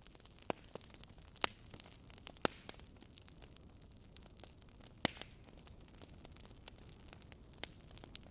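Wood fire crackling: irregular sharp pops and snaps over a faint steady hiss, with about five louder pops spread through it.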